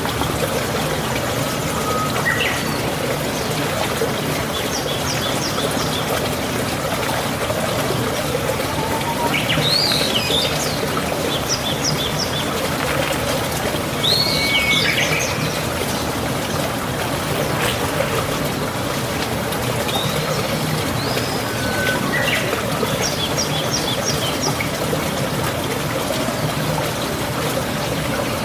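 Running water, a steady trickling rush, with a songbird calling over it: short high notes and quick runs of three or four chips, repeated every few seconds.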